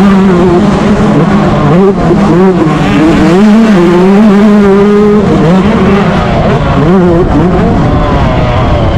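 Yamaha YZ125 two-stroke single-cylinder motocross engine running at high revs, its pitch swinging up and down with the throttle, with brief dips about two seconds in and again near seven seconds.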